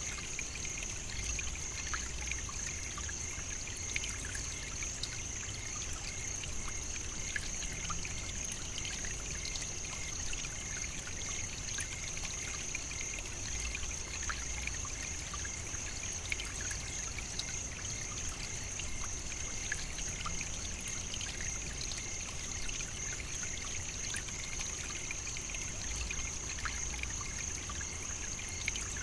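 Steady savannah nature ambience: an even, high-pitched hiss with faint scattered clicks and no sudden events.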